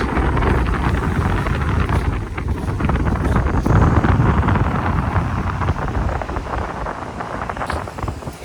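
Strong wind buffeting the microphone: a loud, low rumbling roar that swells and eases in gusts, strongest about four seconds in.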